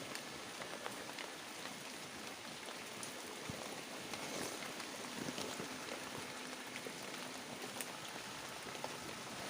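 Steady rain falling, with many scattered drops ticking.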